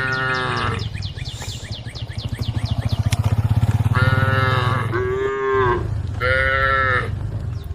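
Cows mooing: several drawn-out calls, one right at the start, two overlapping about four seconds in and one more near the end, as the cows call to the herd. A deep pulsing rumble runs underneath in the middle, and a rapid high chirping repeats in the background.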